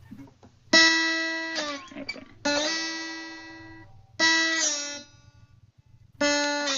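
Guitar played with a slide: four picked notes, each ringing on and then gliding down in pitch as the slide moves, working through a slow slide phrase.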